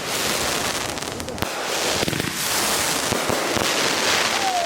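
Consumer fireworks going off in a barrage: many rapid small pops with a few sharper reports, and a high hiss building through the second half.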